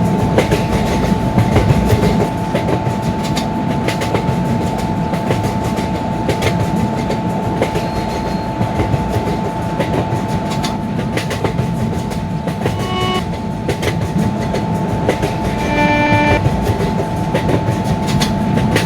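Long train passing at high speed: a continuous rushing rumble with the wheels clicking steadily over the rail joints.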